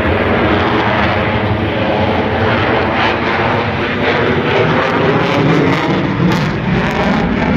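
F-22A Raptor's twin Pratt & Whitney F119 turbofan engines, a loud steady jet rumble, with a few crackles toward the end.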